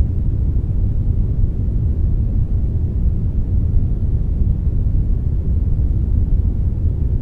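Steady synthetic brown noise blended with a little white noise: an even, deep rushing hiss, strongest in the lows and fading toward the highs, with no changes.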